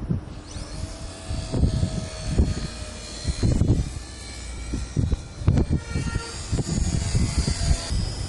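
Electric motor and propeller of an RC Pitts S2A biplane whining thinly in flight, its pitch shifting, under loud gusts of wind buffeting the microphone.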